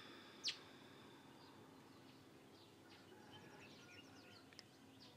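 Faint outdoor ambience with birds chirping: one short, sharp chirp about half a second in, then a run of quick, faint chirps in the second half.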